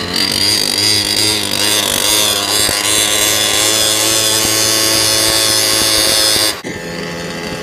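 Small engine of a ridden motorized board running steadily at speed, with a slight rise in pitch at the start; the throttle drops off suddenly about six and a half seconds in.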